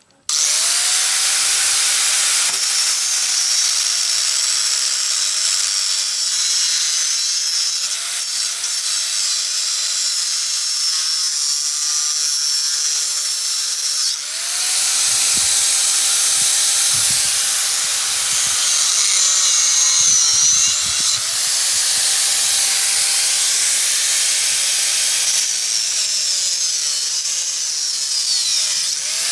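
A handheld electric power tool running with a loud hiss, switched on three times in long runs, its motor whine rising as it spins up and sagging as it winds down.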